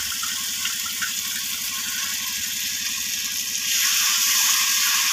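Masala paste sizzling in hot oil in a kadai, with a spatula stirring it; about four seconds in the sizzle grows louder as freshly added coriander paste is stirred through.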